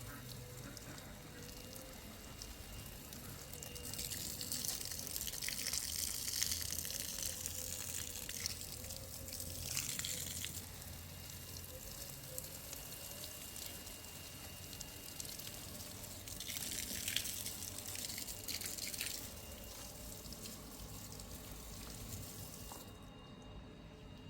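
Water running from a tap in two spells, about six seconds and then about three seconds, with quieter background between.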